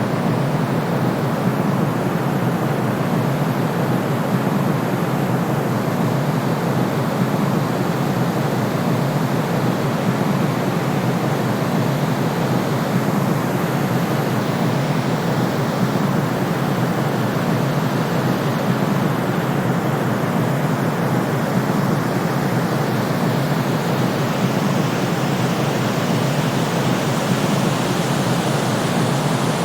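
Steady, unbroken sleep noise: an even hiss-like rush, deep and weighted toward the low end rather than a bright white hiss, with no change from start to finish.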